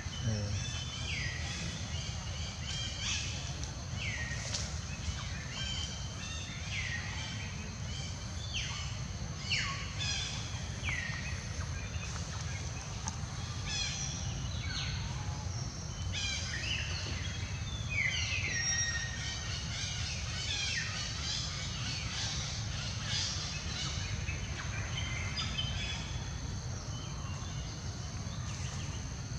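Repeated short high-pitched animal calls, each sliding down in pitch, coming every second or two over a steady low rumble.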